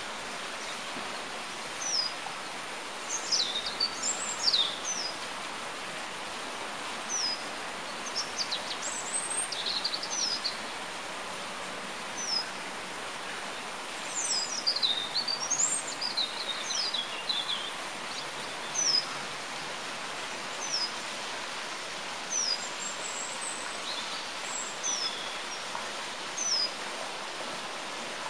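Small songbirds, such as the European robins, blackcaps and coal tits of a Mediterranean park in winter, singing and calling over a steady hiss. Thin high notes that slide downward come every second or few. Longer rambling twittering phrases come about three seconds in, again near ten seconds, and a longer burst midway.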